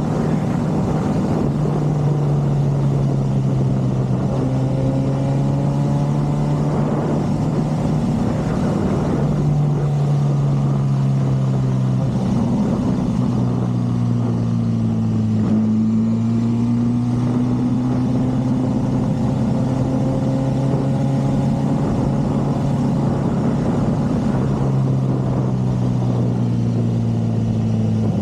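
Motorcycle engine running at a slow riding pace, its pitch stepping up and down several times as the revs change.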